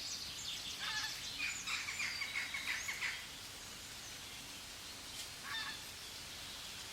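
Bird calls: a quick run of high chirps with falling notes through the first three seconds, then a short call near the end.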